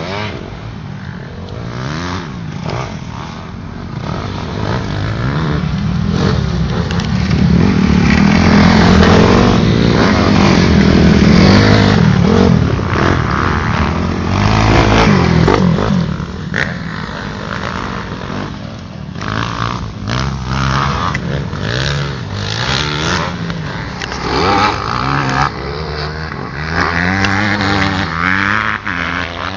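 Motocross bikes riding the track, their engines revving up and down with each throttle change and gear shift; loudest as they pass close in the middle, then fading back to a steadier drone.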